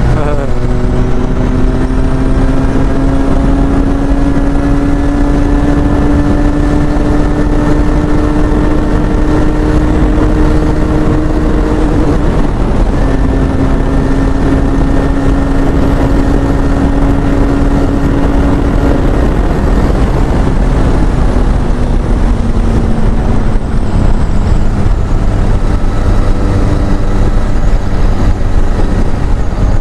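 Benelli Leoncino 500's parallel-twin engine, breathing through a changed exhaust mid-pipe, heard from the bike while it is ridden. The note climbs slowly, breaks briefly about twelve seconds in, holds steady, then falls away in the last third as the throttle comes off.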